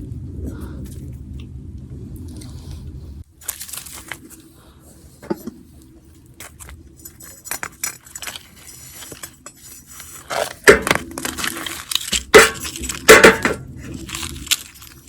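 Handling sounds of a fire-roasted potato in its charred pomelo peel: scattered clicks, scrapes and crunches, with several loud sharp knocks about ten to thirteen seconds in. A steady low hum runs through the first three seconds, then stops.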